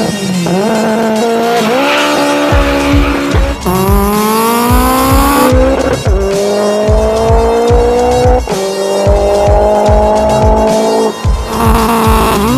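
Turbocharged VW Golf Mk2 launching hard and accelerating flat out, the engine pitch climbing through each gear and dropping sharply at four upshifts. A short tyre squeal comes near the launch, about two seconds in.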